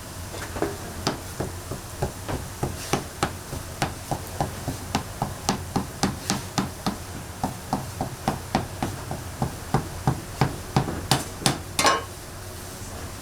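A quick, even run of sharp knocks on a hard surface, about three a second, with a few louder knocks near the end that ring briefly.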